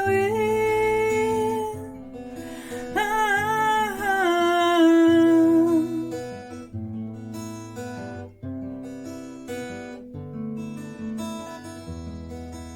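A woman singing with acoustic guitar: a held, wavering note on "wind", then another sung phrase, after which the guitar plays on alone for the last half.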